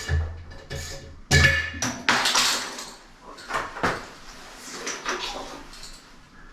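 Hard objects clattering and knocking irregularly, with the loudest knocks about a second and a half and two seconds in.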